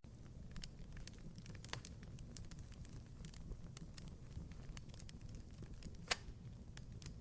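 Wood fire crackling in a fireplace: irregular sharp pops and snaps over a low steady rumble of the flames, with one louder snap about six seconds in.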